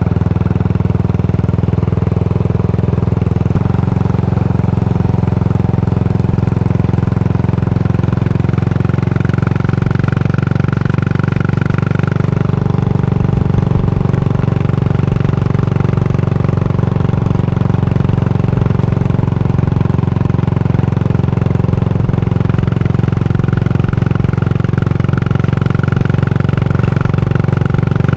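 Yamaha SR400's air-cooled single-cylinder engine running steadily through a Goods tapered-cone slip-on muffler, its exhaust note heard while riding. The note shifts slightly about three and a half seconds in.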